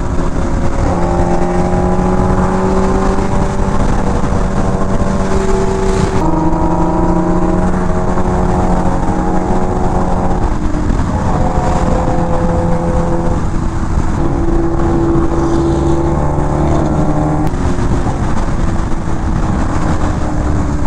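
Sport motorcycle's engine heard from the rider's seat, held at steady revs and stepping up or down in pitch every few seconds as the throttle or gear changes, with constant wind rush over it.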